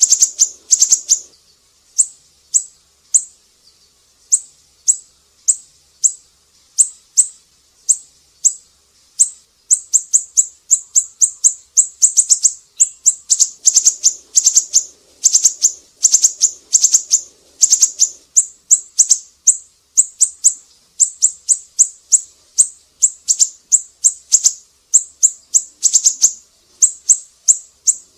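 Siri-siri songbird calling: a long series of short, sharp, high-pitched chirps, some spaced out and some in quick runs.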